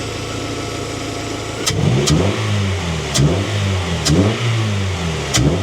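Freshly rebuilt Honda H22 2.2-litre four-cylinder VTEC engine running. It idles steadily at first, then from about a second and a half in the revs are blipped up and down about once a second, with a sharp click as several of the blips start.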